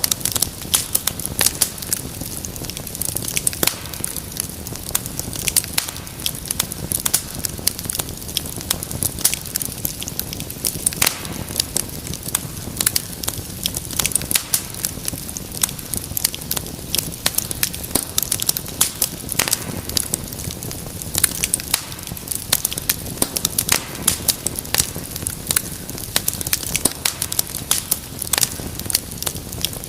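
Wood fire crackling, with many sharp irregular pops and snaps over a steady low rumble of flame.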